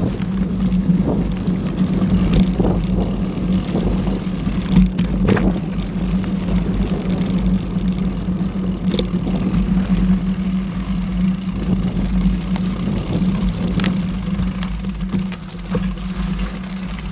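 Mountain bike riding over a trail: a steady hum with scattered rattles and clicks throughout.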